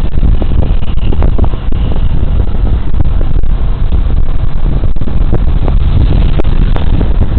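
Heavy wind buffeting on a body-worn camera's microphone while riding a Suzuki Burgman Street 125 scooter, with the scooter's engine and road noise underneath. The sound is a loud, steady low rumble broken by short knocks.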